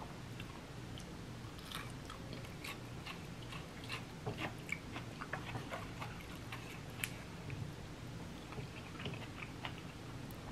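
A person chewing soft cooked ackee close to the microphone, with many small, wet mouth clicks and smacks scattered irregularly throughout.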